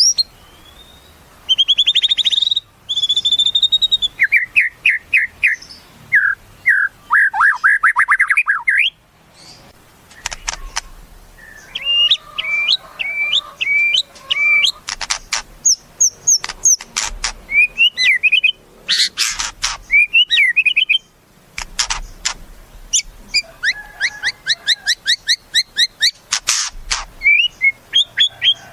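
White-rumped shama (murai batu) singing a varied, loud song of clear whistled notes, fast trills and harsh rasping bursts, with short pauses between phrases.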